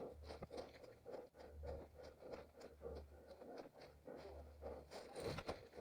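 An orienteer's running footsteps on forest ground, about three a second, with a louder scrape of brush or undergrowth near the end.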